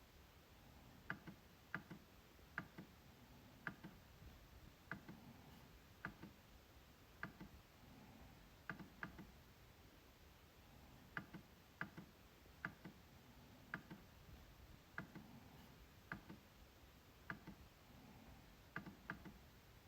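MacBook trackpad being clicked: sharp, irregular clicks about once a second, some in quick pairs like double-clicks.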